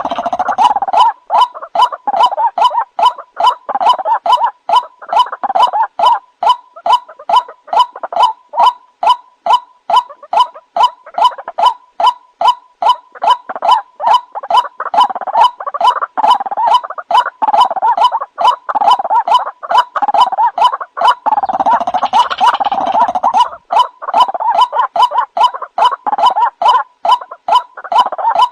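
White-breasted waterhen (ruak-ruak) calling: a continuous run of rapid, repeated croaking notes, about three a second, played as a lure call.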